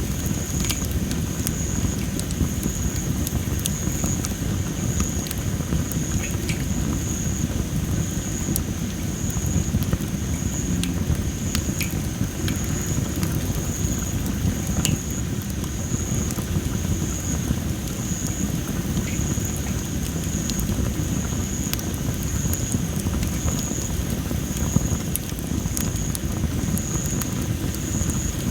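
Campfire of dry masaki (Japanese spindle tree) firewood crackling, with scattered sharp pops over a steady low rumble. Behind it a high-pitched chirp pulses evenly, about twice a second.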